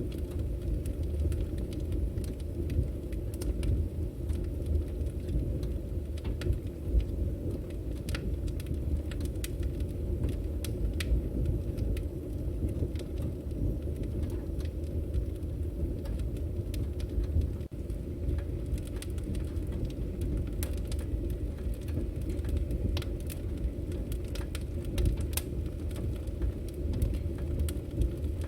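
Wood fire burning: a steady low rush of flames with scattered sharp crackles and pops from the burning firewood.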